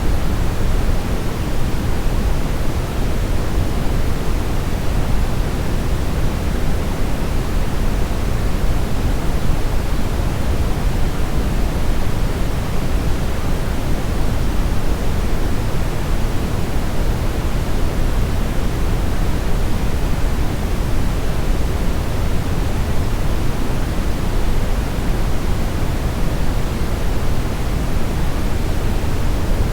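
Synthetic brown noise: a steady, even rushing hiss weighted toward deep bass, with no changes or events.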